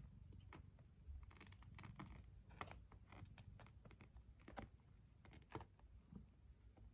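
Near silence with faint scattered scratches and clicks: kittens scrabbling and moving about in their enclosure.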